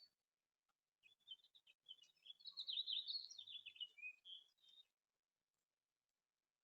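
A small songbird singing: scattered quick chirps building into a fast, jumbled warble that stops suddenly about five seconds in.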